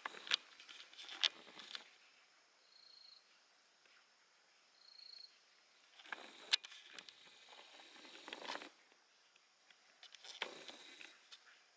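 Faint scratchy rustling and scraping in three short spells, with two brief high-pitched tones in the quieter stretch between them.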